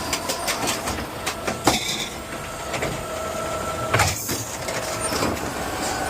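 A garbage truck's automated side-loader arm is working a trash can with a steady hydraulic whine, and the can knocks and bangs sharply a few times as it is lifted and dumped into the hopper.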